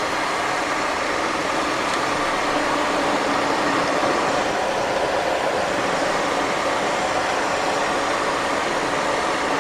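Steady cockpit noise of a Cessna Citation XLS twin-turbofan business jet on approach: airflow and engine noise, swelling slightly over the first few seconds while the landing gear extends.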